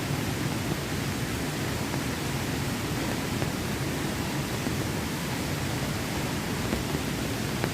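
Steady rush of water: a dense, even hiss without breaks, with the most weight low down.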